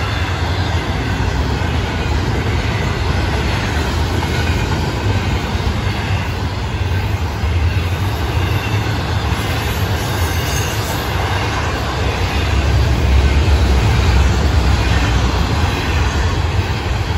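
Florida East Coast Railway intermodal freight cars, loaded with trailers and containers, rolling past: a steady, heavy rumble of steel wheels on rail that swells a little about two-thirds of the way through.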